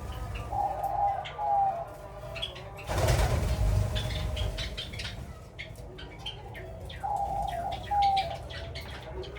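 Doves cooing twice, once near the start and again about seven seconds in, over steady short chirps from java sparrows, with a burst of wing flapping about three seconds in.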